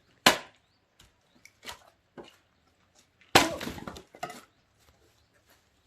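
Axe splitting firewood: two loud chopping strikes about three seconds apart, the second followed by a longer splintering crack, with a few lighter knocks of wood in between.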